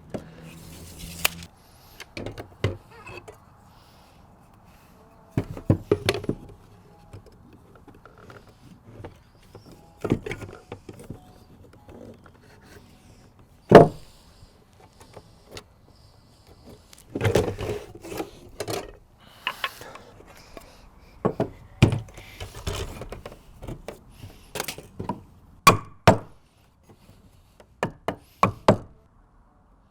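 Framing lumber knocking and thudding as it is handled and fitted, with irregular sharp wooden strikes, the loudest a single hard whack about midway, and short runs of quicker strikes near the end.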